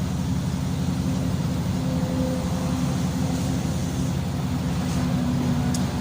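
A machine running with a steady low drone that holds the same pitch throughout.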